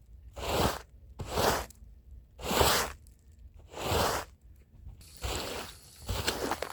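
Hand brush scrubbing a rug, in separate strokes about a second apart. About five seconds in, the strokes come quicker over a steadier background hiss.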